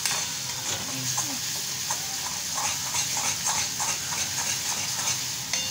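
Onion and tomato masala sizzling in a kadhai over a gas flame as it fries, with a spatula stirring and scraping the pan.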